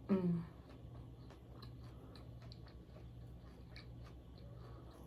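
A person chewing food close to the microphone, with soft wet mouth clicks scattered throughout. It opens with a short voiced "mm" that falls in pitch, over a steady low electrical hum.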